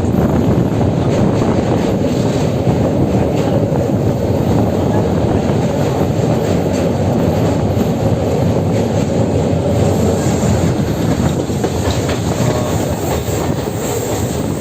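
Passenger train running at speed, heard from aboard: a loud, steady rumble of wheels on rails.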